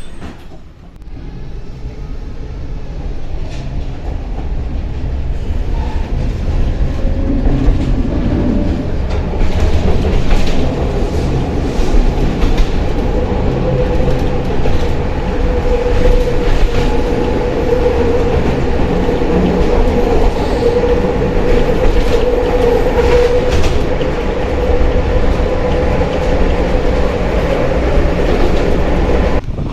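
A tram running on its rails, getting louder as it picks up speed over the first third, with a continuous rumble, clicking of wheels over rail joints, and a steady whine through the middle.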